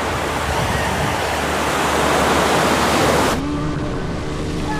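Loud rushing of wind and water spray on the microphone of a moving boat, swelling and then cutting off suddenly about three and a half seconds in, with a motorboat engine's steady drone underneath.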